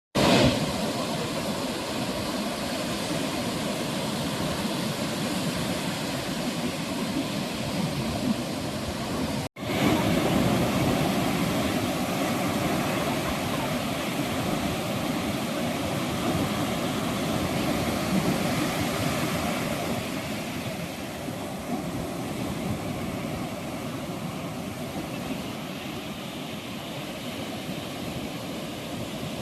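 Sea waves washing onto a sandy beach, a continuous surf rush. The sound drops out for an instant about nine and a half seconds in, then carries on, easing slightly in the last third.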